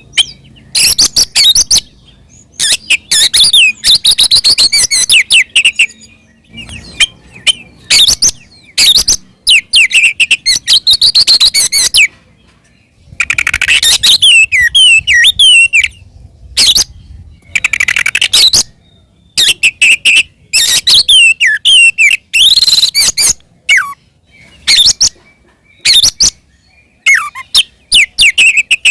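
Oriental magpie-robin (kacer) singing loud, fast phrases of whistles and chattering notes, in bursts a second or two long with short pauses between them. This is the full, aggressive 'fighting' song that keepers call ngeplong tarung.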